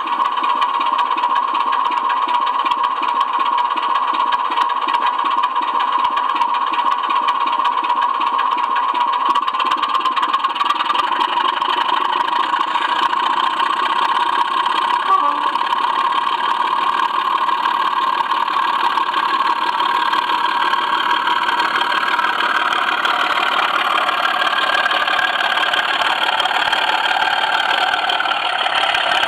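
Model train running on the track, heard from a camera truck riding in the train: a steady rattle and hum of wheels and running gear on the rails as it climbs a helix.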